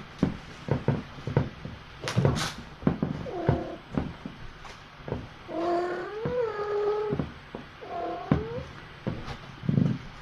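A cat meowing: a short call, then a long drawn-out meow about six seconds in that bends upward, and a short rising meow near the end, among scattered knocks and bumps.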